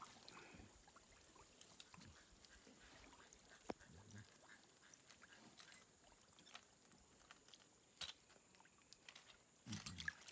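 Near silence, with a faint steady high whine, scattered faint ticks, and two sharp clicks, one a little under four seconds in and one near eight seconds.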